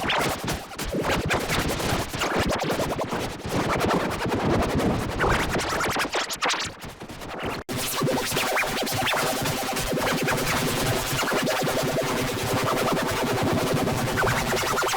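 Cartoon soundtrack audio, music and effects, heavily distorted by editing effects into a harsh, dense, scratchy noise. It breaks off suddenly about seven and a half seconds in and turns into a buzzing drone of many stacked tones.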